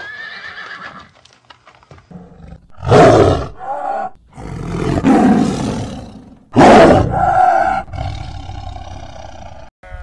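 A horse's whinny trails off at the start. Then a tiger roars and growls, with loud rough roars around three, five and seven seconds in and a long, drawn-out moaning growl near the end.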